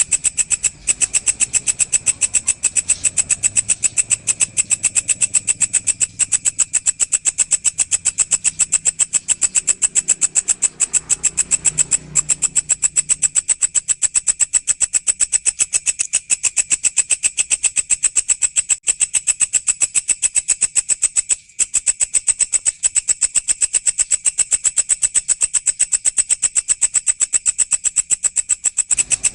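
Walang, a singing grasshopper, stridulating in a continuous, fast, even train of high-pitched buzzy pulses, about seven a second, briefly broken twice.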